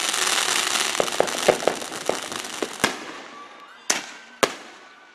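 Fireworks: a dense, hissing crackle of sparks with small pops for the first two seconds or so, fading as three sharp bangs go off about three, four and four and a half seconds in.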